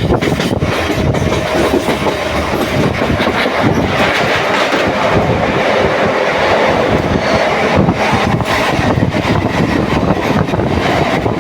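Train running along the track: a steady, loud rumble of wheels on rails.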